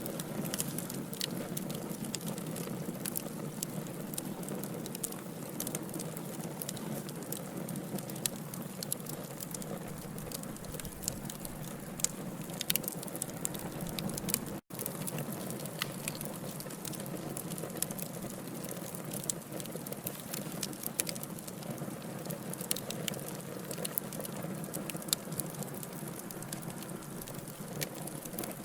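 Wood fire burning in a fireplace: a steady low rush of flame with frequent sharp crackles and pops from the logs. The sound cuts out for an instant about halfway through.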